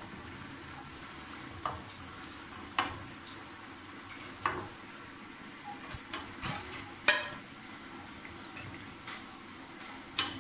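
Samosas sizzling steadily in hot oil, with a metal slotted spoon knocking against the pan and a plate several times as they are lifted out. The loudest knock comes about seven seconds in.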